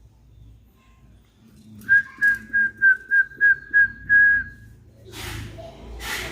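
A run of whistled notes on one steady high pitch: seven short notes at about three a second, then one longer held note. Near the end a brief rushing noise follows.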